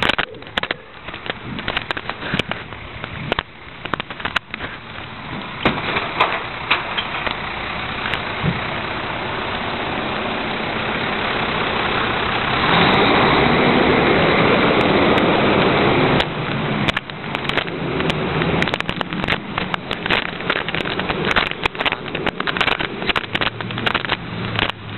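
Heil rear-loader recycling truck running, its engine swelling to a loud steady stretch a little past halfway before dropping back abruptly, with many sharp clanks and rattles throughout.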